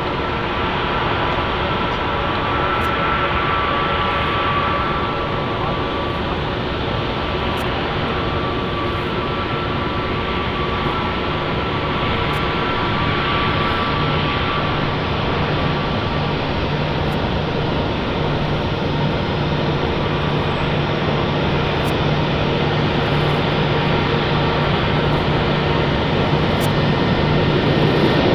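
Jet airliner engines running, a steady rush with a faint high whine that fades partway through while a low hum grows. The sound gets slightly louder toward the end.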